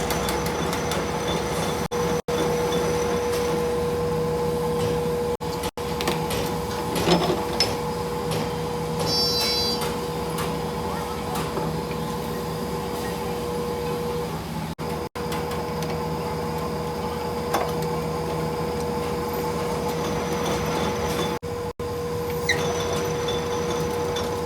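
A workshop machine's electric motor running steadily with a constant hum, broken by a few light clicks and several sudden brief cut-outs.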